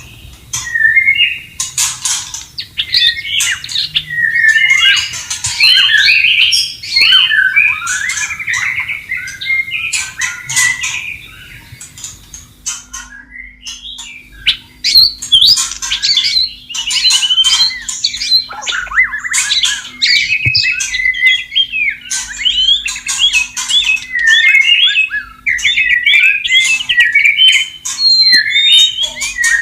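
White-rumped shama singing a long, varied run of whistled phrases and harsher notes, with a short pause about twelve seconds in before the song resumes.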